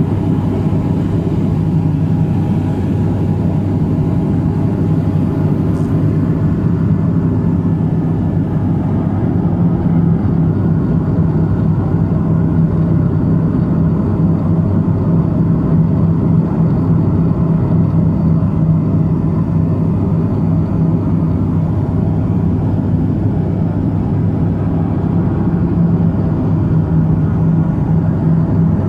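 Let L-410 Turbolet's twin turboprop engines and propellers running in a steady drone with a low hum, a little louder from about ten seconds in.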